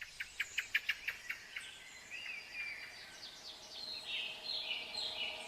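Birds singing: a quick run of repeated chirps, about six a second, for the first second and a half, then whistled and buzzy notes that step downward in pitch.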